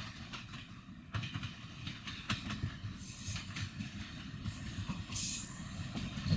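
Train rolling past with a steady low rumble and scattered sharp clicks of wheels over rail joints. There are hissing bursts about three and five seconds in.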